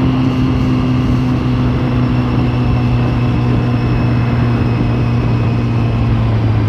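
Sportbike engine running at a steady, fairly high rpm while riding, its pitch easing down slightly, over a constant rush of wind and road noise.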